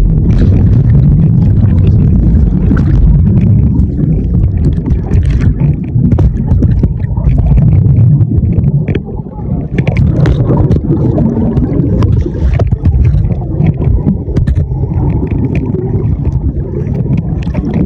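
Rushing water and the rub of the ride heard muffled through a waterproof phone case: a loud, deep rumble with scattered knocks and bumps, as the case rides down a natural water slide.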